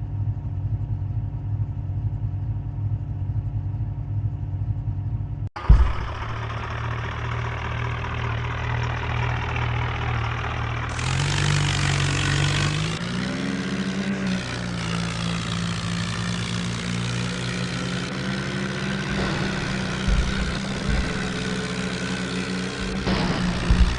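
Tractor engine running steadily, then, after an abrupt cut about five seconds in, a tractor engine that revs up a few seconds later and holds at the higher speed.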